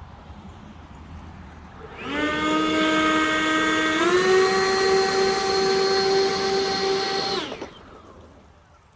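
Leaf blowers starting up about two seconds in with a high motor whine, which steps up in pitch about two seconds later as they reach speed, runs steadily, then shuts off near the end.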